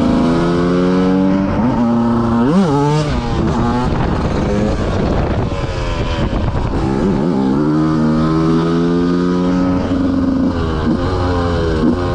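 KTM 125 motorcycle engine running hard at high revs under throttle, the pitch holding high, dipping and sweeping back up sharply about two and a half seconds in, turning rougher in the middle, then climbing and holding high again.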